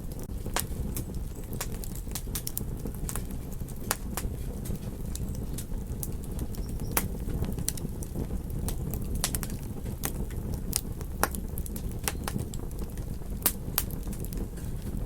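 Campfire crackling, with many sharp irregular pops over a steady low rumble of ocean surf.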